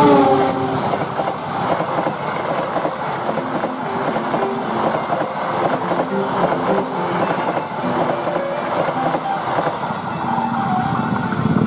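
Diesel-hauled passenger train passing close by. The locomotive goes by at the start with a tone falling in pitch, then the stainless-steel coaches roll past with a continuous clatter of wheels over the rails.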